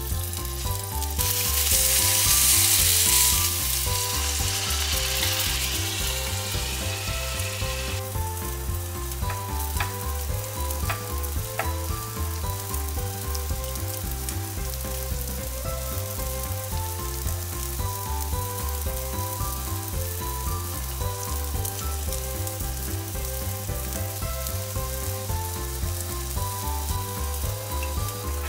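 Hamburger steak patties sizzling in a frying pan, loudest a couple of seconds in and cut off sharply about eight seconds in. Light background music with a steady beat runs throughout, with a few sharp clicks later on.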